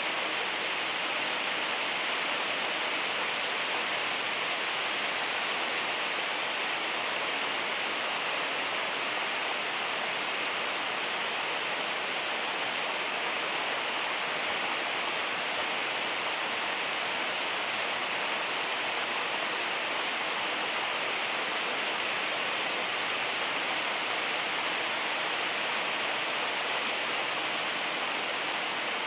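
Steady rain falling, an even hiss that holds constant with no single drops or knocks standing out.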